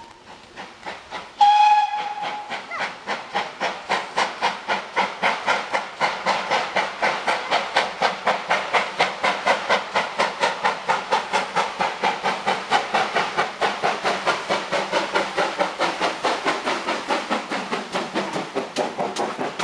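Steam locomotive giving a short whistle about a second and a half in, then working hard with a steady, even chuff from its exhaust.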